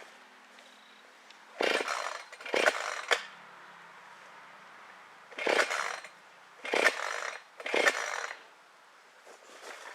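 Chainsaw revved in five short bursts of about half a second each, two close together, a pause, then three more.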